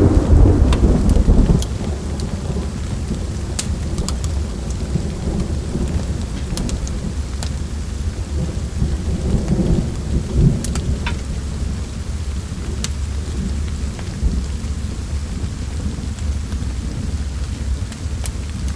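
Thunderstorm ambience: steady rain under a low rolling rumble of thunder, which swells at the start and again about halfway through. Scattered sharp crackles of a wood fire sound throughout.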